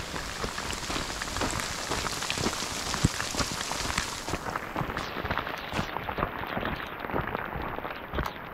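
Rain falling, with many irregular sharp taps of drops through the steady hiss.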